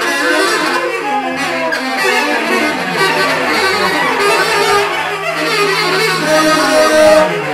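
Free-improvised noise music: bowed cello and tenor saxophones playing dense, clashing lines over percussion, with a long held low cello note that slides down near the end.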